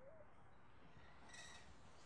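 Faint bird calls: a short, low call right at the start, and a brief higher chirp about one and a half seconds in.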